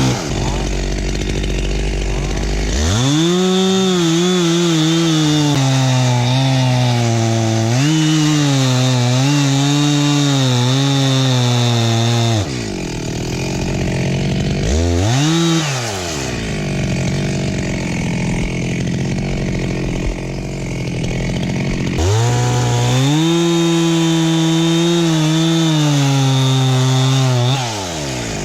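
Two-stroke chainsaw revved to full throttle about three seconds in and held there for roughly nine seconds, its pitch wavering as the chain cuts wood, then dropping back. After a short blip of the throttle and a stretch at lower revs, it revs up again for about five seconds near the end before falling away.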